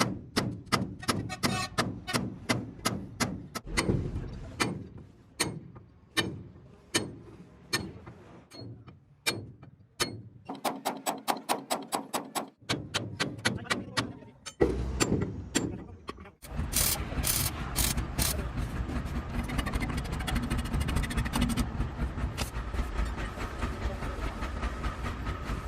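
Hammer blows on the truck's rear suspension parts, about two sharp metal strikes a second, for most of the first sixteen seconds. Then a steady, dense mechanical running noise takes over.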